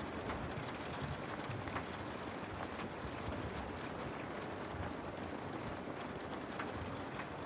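Steady rain falling on a window, an even hiss with scattered single drops ticking against the glass.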